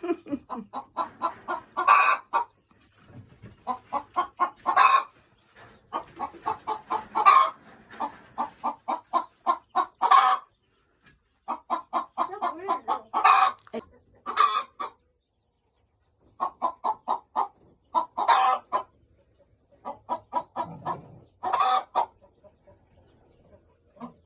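Ayam Cemani hens clucking in quick runs of short notes, with a louder, sharper call every couple of seconds. The clucking breaks off briefly twice.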